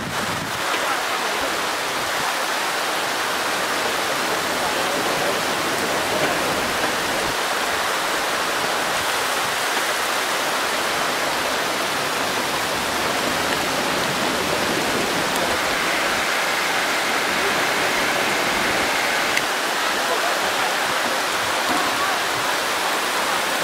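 Heavy tropical rain pouring down steadily, a dense even hiss.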